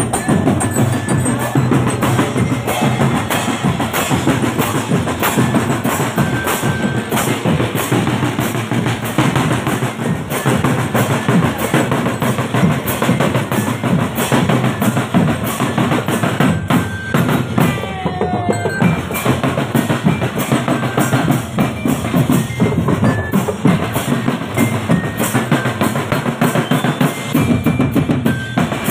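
Marching drum band playing loud, continuous percussion: bass drums and snare drums beating a rapid rhythm, with snare rolls.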